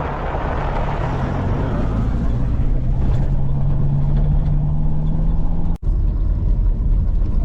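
Car engine and road noise heard from inside the cabin: a steady low rumble with an engine note that rises slowly through the middle. The sound cuts out briefly for a split second near the end.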